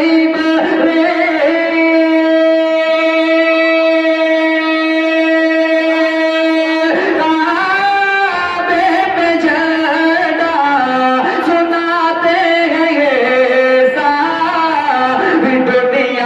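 Naat being sung with a musical backing: one note is held for about seven seconds, then the line turns into a winding, ornamented melody.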